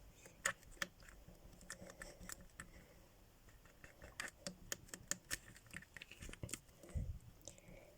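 A toothpick pricking and scratching soft air-dry clay to mark a fur texture, heard as faint, irregular small taps and clicks.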